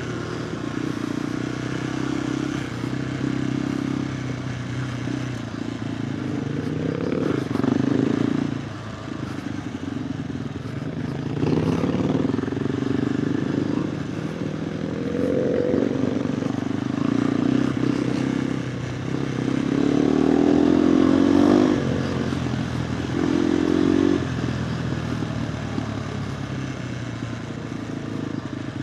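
KTM 390 Adventure R's single-cylinder engine through a Norifumi Whoops stainless slip-on exhaust, ridden on a dirt trail: the engine note rises and falls as the throttle is opened and closed, with several harder, louder pulls, the strongest about two-thirds of the way in.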